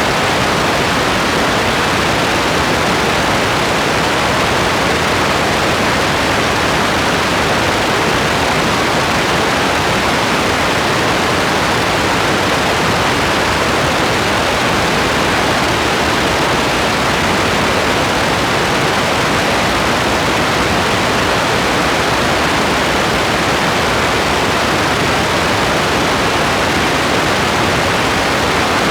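Steady rain as a dense, even hiss with no single drops, thunder or other events standing out.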